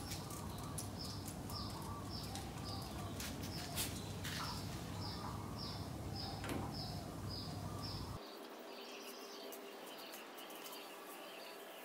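A small bird calling over and over, a short high chirp about two or three times a second, above a low steady hum. About eight seconds in the hum drops away and other birds chirp in a quicker, lower pattern.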